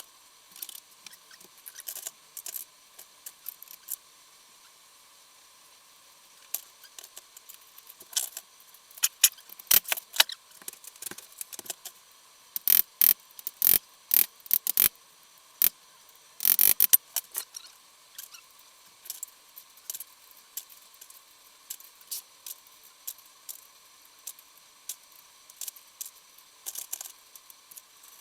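Hand tools and small metal engine parts being handled during motorcycle engine reassembly: scattered light clicks and clinks, with a run of louder metallic knocks about halfway through.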